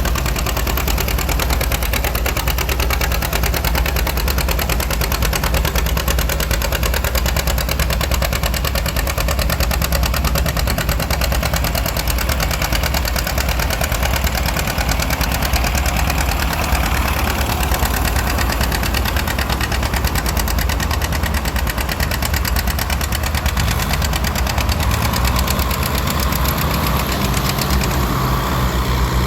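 1938 John Deere A's two-cylinder engine running steadily with a fast, even beat, pulling in an antique tractor pull.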